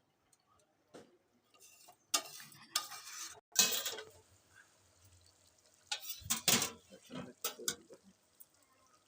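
Metal cookware and utensils clattering and scraping against a kadai, in two spells: one about two to four seconds in and another about six to eight seconds in.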